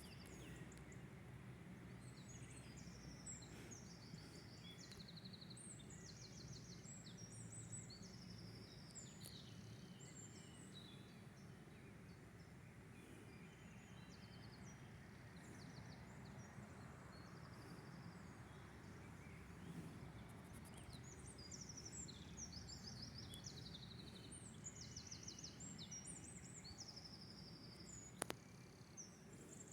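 A songbird singing faintly in short, high, trilled phrases, in two spells with a pause between, over a steady low background rumble. A single sharp click near the end.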